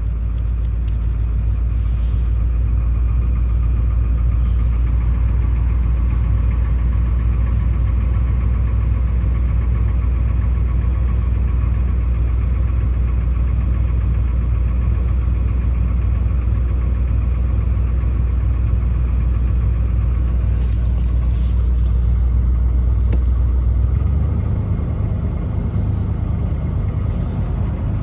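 Car engine idling steadily just after a cold start in freezing weather, running rough and cold. About 24 seconds in, its steady hum changes and drops a little in level.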